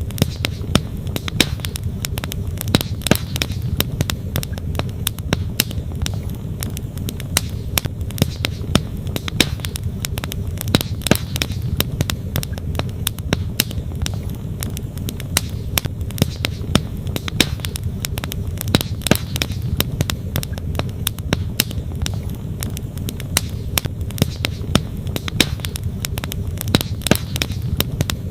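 Wood campfire crackling, with frequent sharp snaps and pops, over the steady low rush of a flowing stream.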